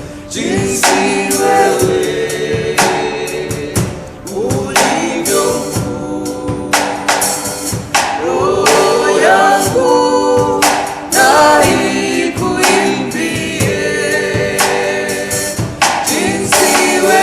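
A group of singers performing a gospel worship song with instrumental backing, with percussion hits on the beat.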